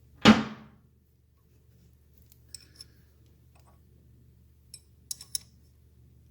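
A single loud metal clank, then a few light metallic clicks and taps as workshop tools and chain parts are handled.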